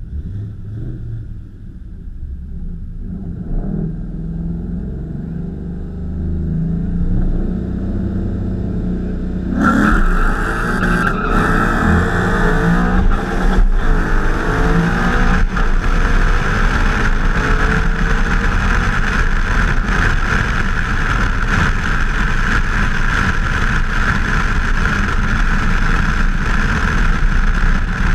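Manual-transmission street-car engines idling and being revved side by side at the start line, heard from inside one car. About ten seconds in they launch hard. The engine runs at full throttle with a few brief breaks where gears change, joined by loud wind and road noise that carries on steadily at speed.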